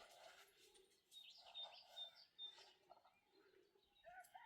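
Faint birds chirping, a quick series of short high chirps about a second in, with a drawn-out animal call starting near the end.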